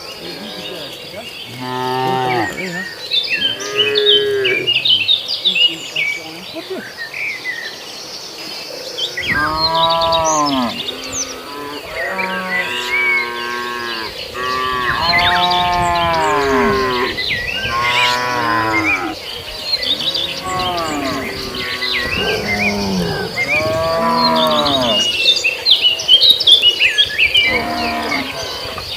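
A herd of cattle mooing, many long calls one after another and overlapping, with birds chirping and insects buzzing steadily behind.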